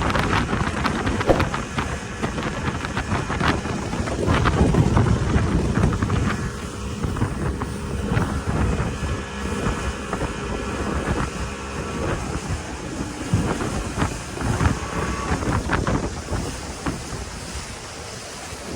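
Speedboat running on the river, its engine noise mixed with wind buffeting the microphone and scattered knocks.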